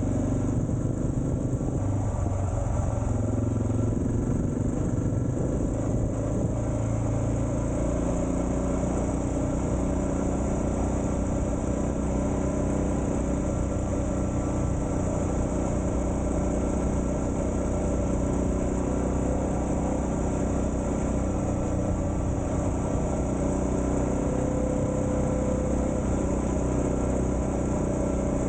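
Suzuki DR650's single-cylinder four-stroke engine running under way. The engine note shifts in pitch over the first several seconds, then holds steady at cruising speed.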